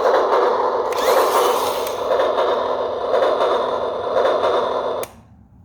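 Early EZTEC 4112 battery-powered toy train running on its track, a steady rattling, pulsing noise that cuts off suddenly about five seconds in.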